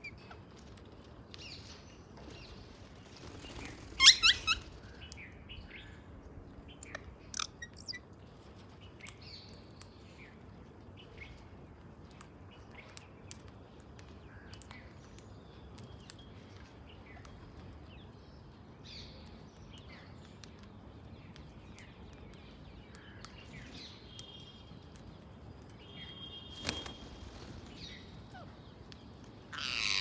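Birds chirping on and off over a soft outdoor background, with one loud harsh call about four seconds in. A held whistled note and a sharp click come near the end.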